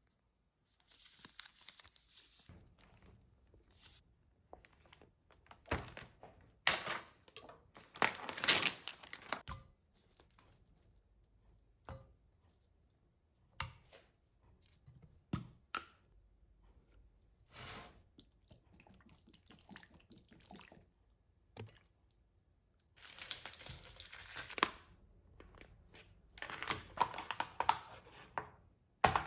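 Plastic or paper food packaging being torn open and crinkled, in irregular rustling bursts with a few short knocks of items being handled.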